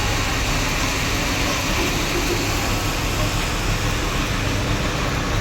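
Heavy diesel machinery running steadily: the engine of a backhoe loader working alongside tractors, a dense, even rumble with a low hum.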